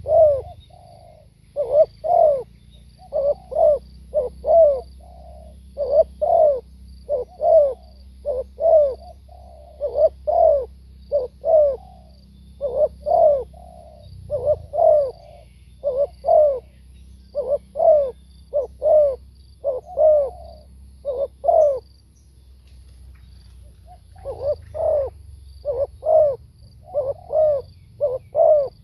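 Spotted dove cooing over and over, short phrases of two or three notes about once a second, with a pause of about two seconds about three-quarters of the way through.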